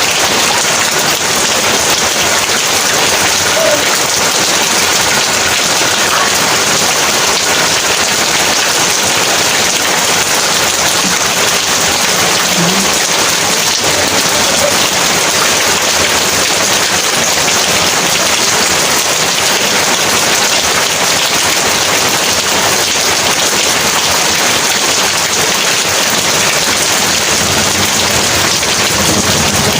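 Heavy rain pouring steadily: a dense, even hiss of downpour with no let-up.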